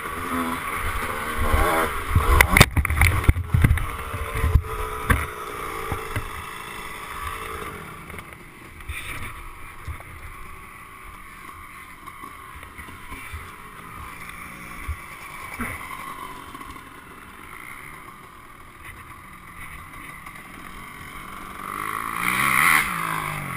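A 1996 Honda CR125 two-stroke motocross bike running. About two to five seconds in, a cluster of loud knocks and thumps as the bike and rider go down in a crash. After that the sound stays quieter and steady, and an engine swells and fades near the end.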